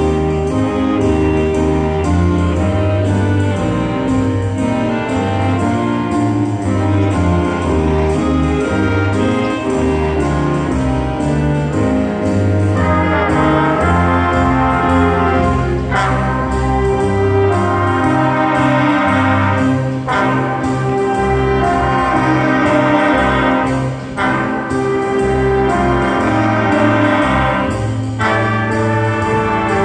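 Brass-led band music, with trumpets and trombones playing over a moving bass line.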